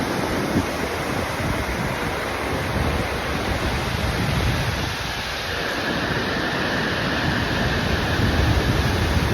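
Stigfossen waterfall: a steady, even rush of falling water.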